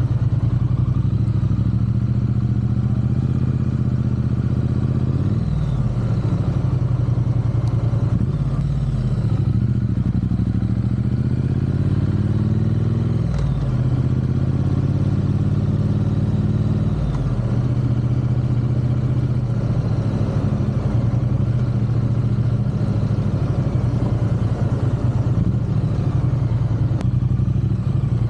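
Triumph parallel-twin motorcycle engine running while being ridden, its note climbing under acceleration and dropping sharply at gear changes about five seconds in and again around thirteen seconds, with steady cruising in between.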